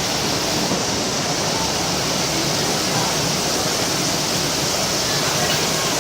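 Heavy rain pouring down steadily: a dense, even hiss that does not let up.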